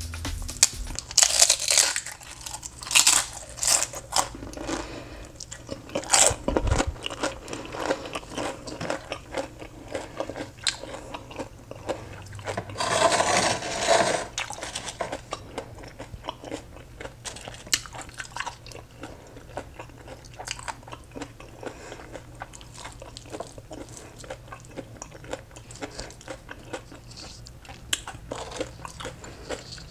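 Crunchy tortilla chips being bitten and chewed, a run of sharp crunches that is loudest in the first half and then settles into quieter chewing.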